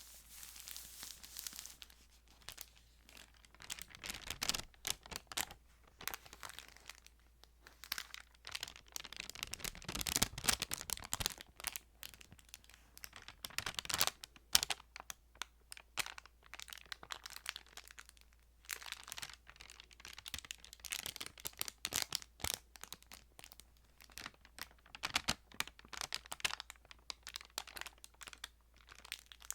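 Thin Bible pages being handled and turned close to the microphone: crisp crinkling and rustling in irregular bunches, loudest about ten and fourteen seconds in.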